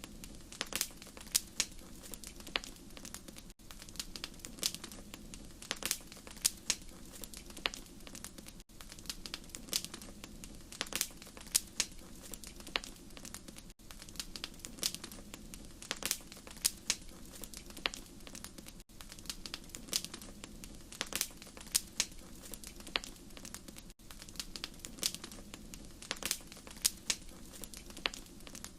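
Wood fire crackling in a fireplace: irregular sharp pops and snaps over a soft steady low rumble. The same few seconds of crackle repeat about every five seconds.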